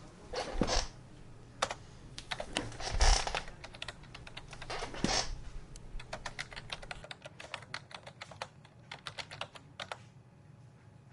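Computer keyboard typing: runs of quick keystroke clicks with a few heavier knocks mixed in, the typing stopping about ten seconds in.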